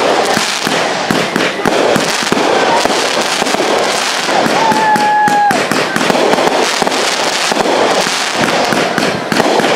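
Aerial fireworks bursting overhead, with dense, rapid crackling from glittering crackle stars all through. A brief whistle-like tone sounds about halfway through.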